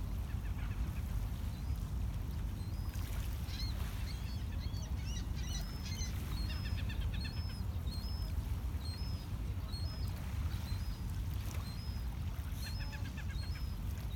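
Birds chirping: a flurry of mixed high calls about four seconds in, then one short high note repeated about one and a half times a second, over a steady low rumble.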